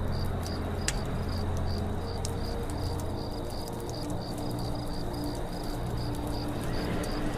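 Forest night ambience: a cricket chirping in an even, rapid train of about four or five chirps a second, over the scattered crackle of a campfire and a low steady drone.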